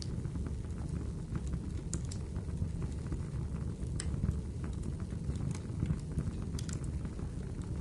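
Wood fire in a fireplace crackling: a steady low rumble from the burning logs, with sharp pops and snaps scattered through it, a strong one every second or two and a quick cluster near the end.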